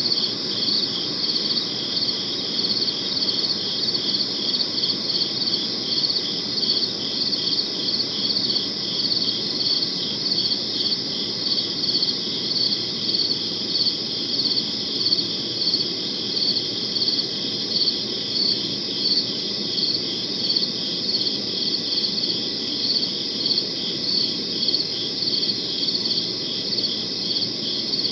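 Crickets chirping steadily in a high, even rhythm of about two chirps a second, over a faint low background hiss.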